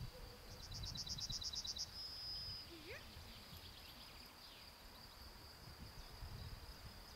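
Open-air ambience: a small bird sings a rapid high trill of about a dozen notes about a second in, over a steady high chirring of insects.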